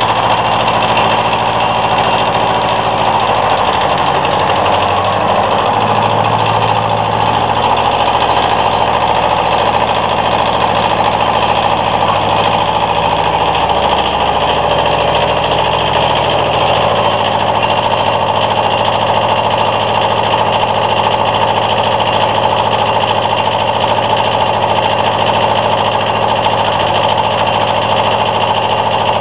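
Kubota L1500 compact tractor's diesel engine running steadily near idle; its note shifts for a while in the middle, from about four seconds in to about seventeen, then settles back to a steady idle.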